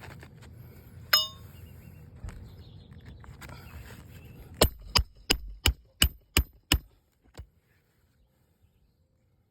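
A hammer driving a nail during a shingle repair: a quick series of about seven sharp strikes, roughly three a second, that then stop. A single metallic clink comes about a second in.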